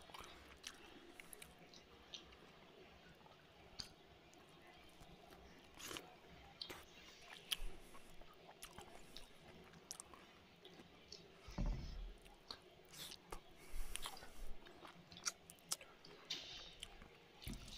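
A man chewing mouthfuls of rice and curry eaten by hand, with scattered soft wet mouth clicks and a few low thuds.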